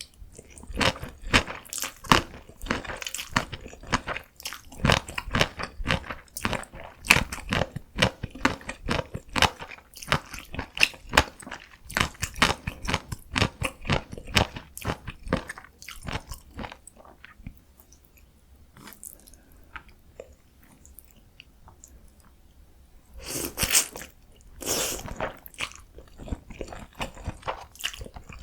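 Close-miked mouth sounds of eating Baehongdong bibim noodles: rapid wet chewing clicks for about sixteen seconds, a quieter pause, then two longer rushing sounds about 23 and 25 seconds in, and chewing again near the end.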